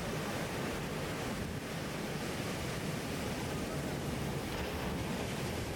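Steady wind rush buffeting the microphone of a rider on a moving Royal Enfield Hunter 350, with the motorcycle's single-cylinder engine running low underneath.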